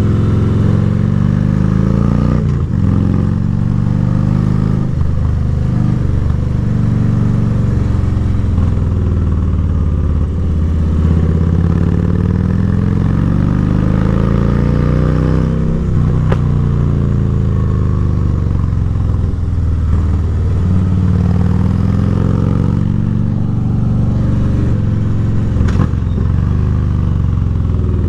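Harley-Davidson V-twin motorcycle engine under way, its pitch rising and falling again and again as the throttle is rolled on and off, with a few brief knocks.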